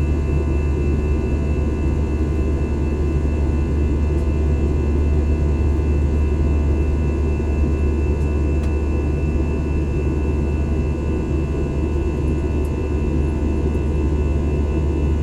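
Steady drone of a jet airliner heard inside the passenger cabin: a deep, even rumble of engines and airflow with a faint high whine running through it.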